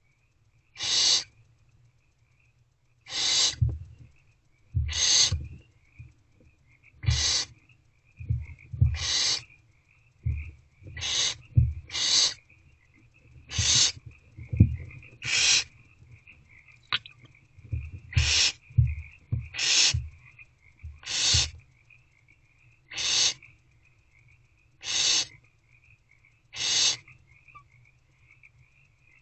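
Barn owlets giving their rasping, snore-like hissing calls, the begging call of young barn owls, one every one and a half to two seconds, with soft low rustling under some of them.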